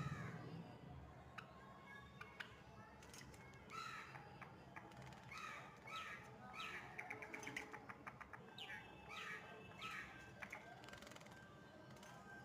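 Java sparrow calling faintly: a string of short, harsh chirps, with a quick run of clicking notes in the middle.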